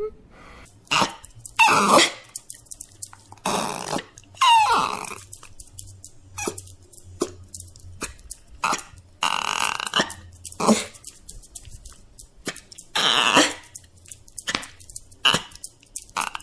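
A dog whining and grunting in short, irregular bursts, some of the whines sliding down in pitch.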